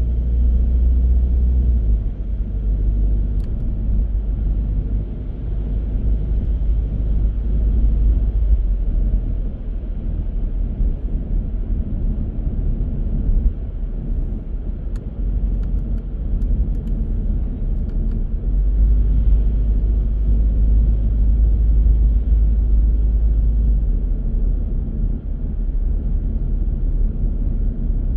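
Car driving on city streets: a steady low rumble of engine and road noise that swells and eases a little as it goes.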